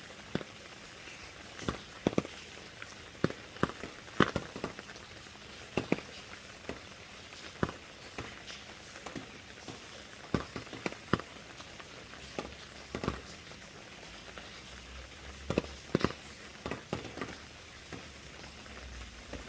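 Rain: a steady soft hiss with large drops striking a surface in irregular sharp taps, about one or two a second.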